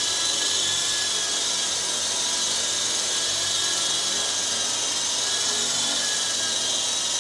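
MJX 645 four-channel fixed-pitch RC helicopter hovering: the steady, high-pitched whine of its small electric motors and spinning rotors.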